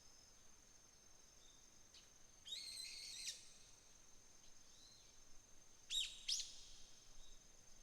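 Wild birds calling: a harsh, buzzy call about two and a half seconds in lasting under a second, then two short sharp chirps around six seconds in. Under them runs a faint, steady high-pitched trill of autumn insects.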